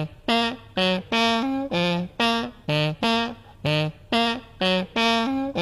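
Human beatboxer's vocal 'human saxophone' imitation: a rhythmic riff of short, clipped sax-like notes, about two to three a second, stepping between a low and a higher pitch.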